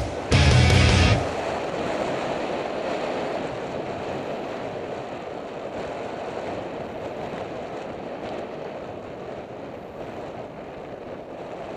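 Loud music that cuts off about a second in, then steady rushing wind noise on the microphone of a camera riding along on a road bicycle, fading slightly.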